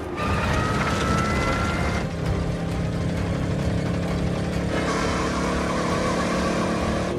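Old American cars racing flat out: engines running hard at speed, with a high whine rising slightly over the first two seconds.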